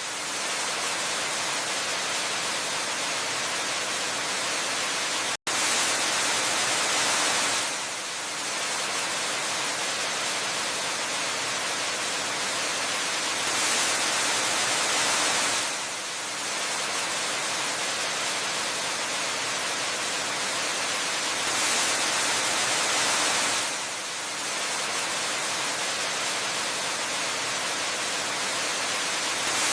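Waterfall: a continuous rush of falling water, even across high and low pitches. It swells slightly louder for a couple of seconds about every eight seconds, and cuts out for an instant about five seconds in.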